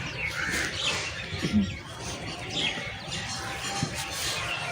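Birds chirping, with short high calls scattered through.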